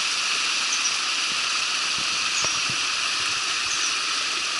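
Steady rushing of water, an even hiss with no change in level. A faint, short high chirp recurs about every second and a half over it.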